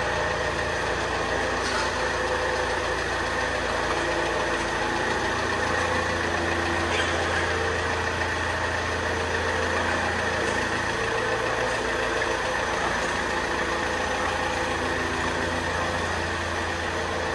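Saab 9-3's 2.0-litre turbocharged 16-valve four-cylinder engine idling steadily.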